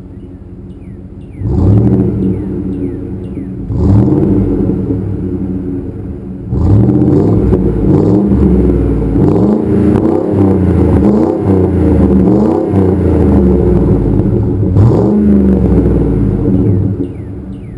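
Second-generation Ford Expedition's V8 revving through a Magnaflow exhaust with high-flow cats, the rear cats deleted and a straight-through muffler. It idles, gives a short rev about a second and a half in and another about four seconds in, then a long run of repeated revs, each rising and falling, before settling back to idle near the end.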